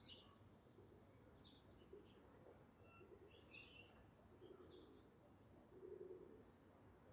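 Faint morning birdsong: scattered short, high chirps from small birds, with low cooing about four and a half and six seconds in.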